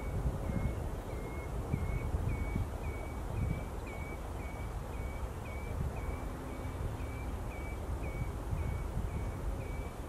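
A bird repeating a single short call note, with a slight upward flick, about twice a second at a steady pace, over a low rumble of wind.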